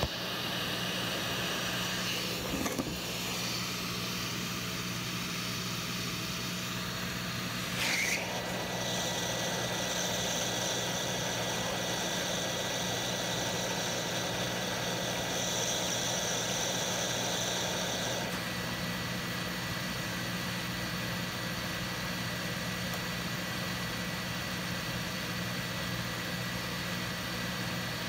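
Hot air rework station's blower running steadily, a hissing airflow over a low hum, with a short click about eight seconds in and a change in the hiss about eighteen seconds in.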